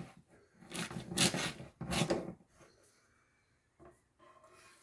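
Freshly sharpened pruning shears being tried on a test cut: two scraping, rustling cuts about a second apart, then a faint click. The blades are now cutting cleanly after being sharpened and adjusted.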